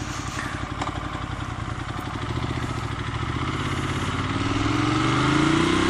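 Ducati Monster 1200 R's L-twin engine through a Termignoni slip-on exhaust with dB killers in. It runs at low revs with a steady pulsing beat, then from about two seconds in it accelerates, its pitch and volume rising steadily.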